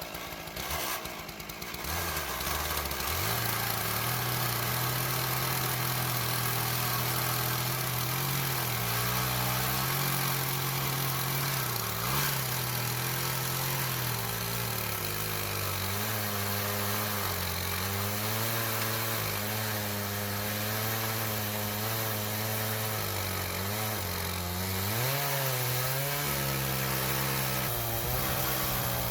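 Chainsaw on an Alaskan chainsaw mill ripping a slab lengthwise from a maple log. The engine comes up to full throttle about two seconds in, then runs under load, its pitch dipping and recovering as the cut bogs and frees.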